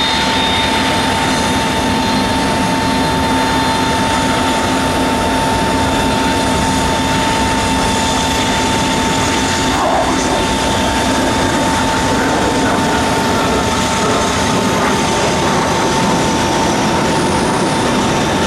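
The four turbofan engines of a USAF C-5 Galaxy running steadily, a constant engine noise with a steady high whine over it.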